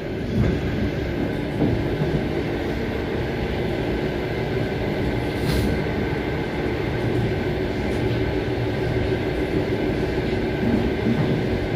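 Long-distance passenger train running at speed, heard from inside the carriage: a steady rumble of wheels on track with an even hum.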